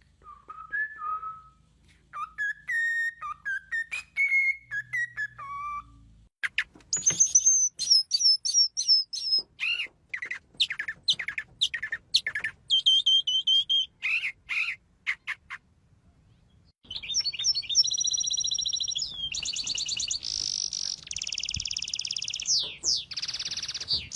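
Songbirds singing: slow, low whistled phrases at first, then quick, high, rapid song notes, and after a brief pause a dense, fast, buzzing trill.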